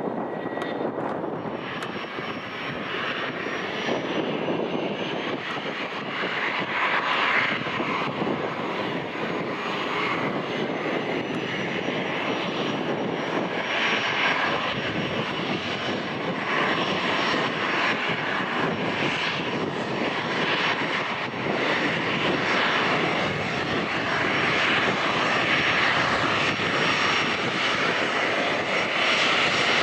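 Bombardier Challenger 350 business jet's twin turbofan engines running, a thin high whine over a steady rush that grows louder toward the end. Wind buffets the microphone throughout.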